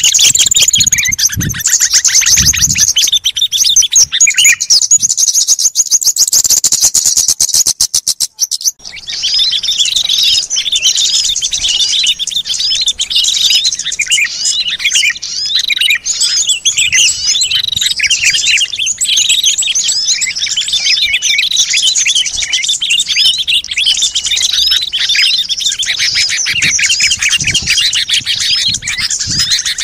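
Small songbirds calling: a fast, even rattle of high calls for about eight seconds, a brief break, then a dense chorus of many overlapping chirps and twitters. It is a recorded bird-lure track of small-bird calls, played to draw small wild birds in.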